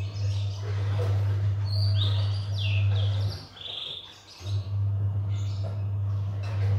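Birds chirping in short, high notes that fall in pitch, over a steady low hum. The hum cuts out about three and a half seconds in and returns about a second later.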